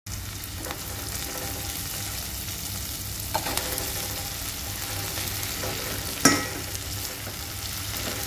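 Oil sizzling steadily in a nonstick wok as sliced chilies, shallots and garlic fry with pieces of fried tofu being stirred through them with a plastic spatula. A few sharp knocks of the spatula against the pan, the sharpest about six seconds in.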